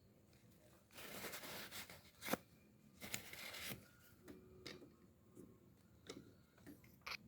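Light handling noises from small parts and tools during a fishing reel service: two brief spells of rubbing or scraping with a sharp click between them, then a few faint clicks and a quick double click near the end.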